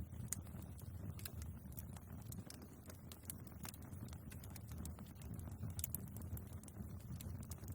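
Wood fire burning in a fireplace: a low steady rumble with scattered sharp crackles and pops from the logs.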